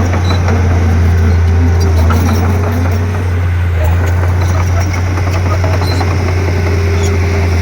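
Komatsu D31P bulldozer's diesel engine running steadily with a loud, even low drone.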